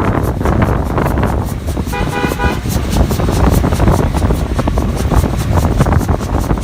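A short horn toot about two seconds in, lasting about half a second, over a steady low rumble with wind on the microphone.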